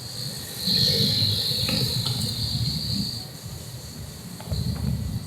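Crickets trilling steadily at a high pitch, loudest for a couple of seconds starting about a second in, over a low rumble.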